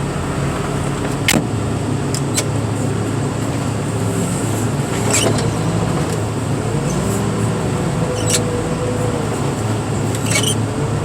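Heavy equipment engine running steadily, with a whining tone that rises and falls a few times and several sharp clicks or knocks.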